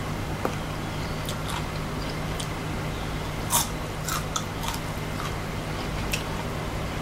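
A person chewing deep-fried beetles close to the microphone: scattered sharp crunches of the shells, the loudest about three and a half seconds in.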